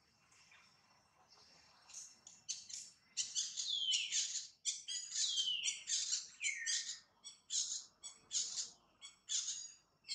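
A bird calling: a rapid run of high notes starting about two seconds in, several of them sliding down in pitch.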